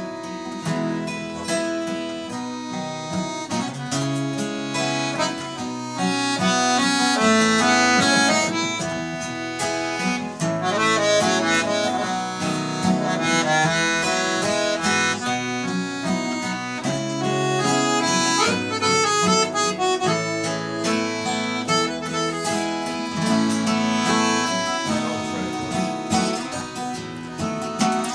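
Instrumental break of a folk song: an accordion plays the melody over acoustic guitar.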